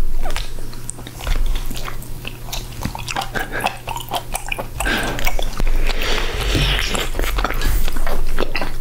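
Close-miked chewing of gooseneck barnacle meat, with many small mouth clicks and smacks.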